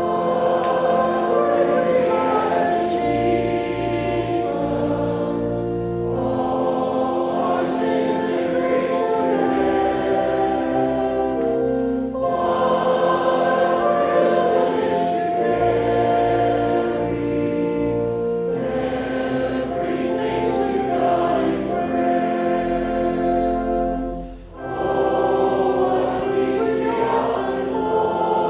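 Congregation singing a hymn with organ accompaniment, in held sustained chords, phrase by phrase, with a short breath break near the end.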